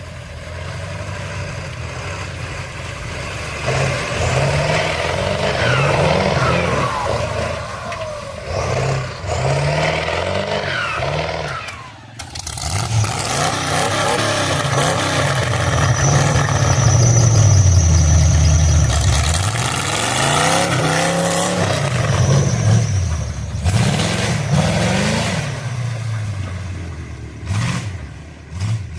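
Old 4x4 truck engines revving up and down over and over as the trucks churn through mud, with a brief break about twelve seconds in.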